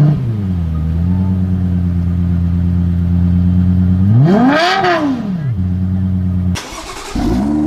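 Car engine cold start: it fires and flares up, then settles to a steady fast idle. About four seconds in there is a single rev blip that rises and falls, and the sound cuts off abruptly. Near the end another car engine fires with a short flare and settles to idle.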